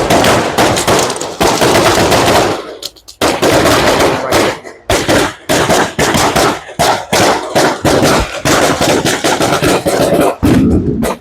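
Rapid volleys of loud bangs crackling on almost without pause, breaking off briefly about three seconds in and again near five seconds.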